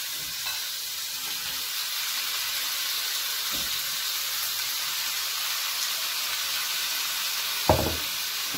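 Prawns sizzling steadily in hot oil and ginger-garlic paste in a cast-iron pan as they are stirred and sautéed. A single sharp knock sounds near the end.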